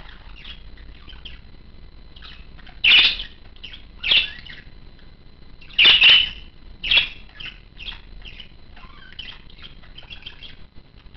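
A bird chirping: a run of short chirps with four louder calls a few seconds in.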